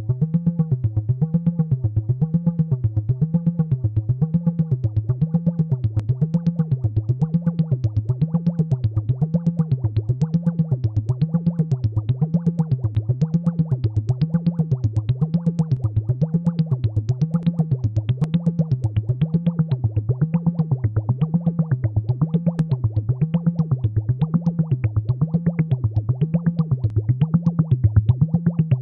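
AnalogFX SER-2020 analog synthesizer sounding a low tone whose pitch wobbles up and down about once a second, with a fast pulsing rhythm on top.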